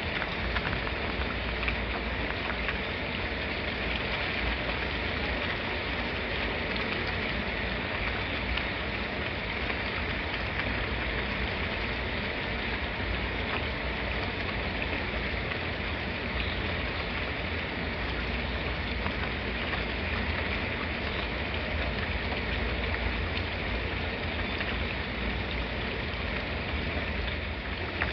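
Steady rain falling, a constant hiss with scattered drop ticks and no changes.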